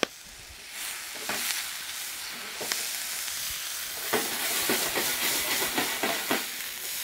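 Diced shallots sizzling in a hot stainless steel pan. The sizzle swells about a second in, and a utensil clicks and scrapes against the pan several times as they are stirred.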